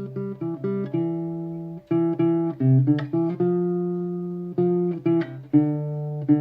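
Solo acoustic guitar playing the closing instrumental bars of a country song, individually picked notes and chords ringing out, with no singing.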